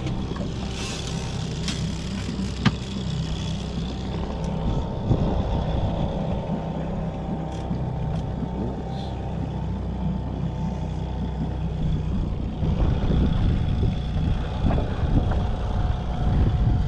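Boat motor running steadily with a low, even drone, with wind buffeting the microphone that grows louder about two-thirds of the way through. A single sharp click sounds about three seconds in.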